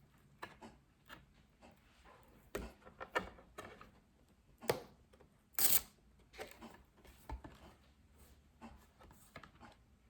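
A children's sound book being handled, its pages turned: irregular rustles and sharp clicks, the loudest about two thirds of the way through.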